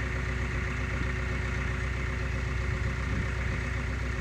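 Engine of a tractor that had been gutted by fire, running again and idling steadily at an even speed with a low hum.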